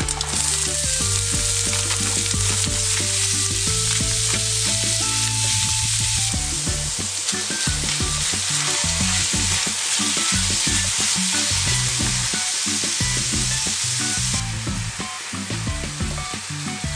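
Diced ham, onion and kimchi sizzling loudly in hot oil in a stainless steel frying pan while being stirred with a spatula; the sizzle drops off near the end as cold rice goes in.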